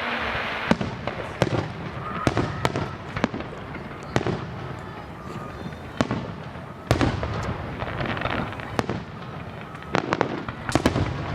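Fireworks going off: an irregular string of sharp bangs and pops, often several a second, with a low rumble in between.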